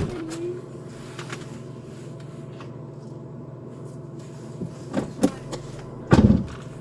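Patrol car idling with a steady low hum, broken by a sharp click at the start, two short knocks about five seconds in, and a heavier thump about six seconds in.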